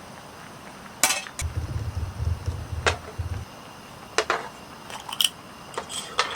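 Dishes and utensils clinking: several separate sharp clinks and knocks of tableware, with a low rumble of handling between about one and a half and three and a half seconds in.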